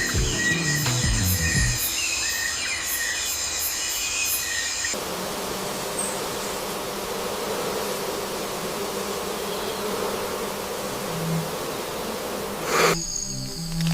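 Insects buzzing in a steady drone that takes over about five seconds in. Before that come music and bird chirps.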